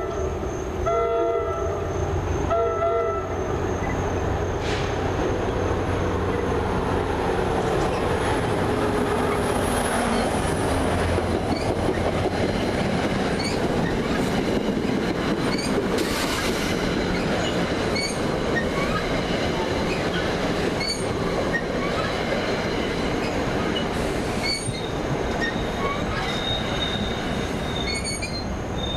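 NJ Transit commuter train sounding its horn in short blasts for the crossing, the horn stopping about three seconds in, then passing at speed: a long rush of wheels on rail with a regular clicking as the wheels cross rail joints, and a thin high wheel squeal near the end.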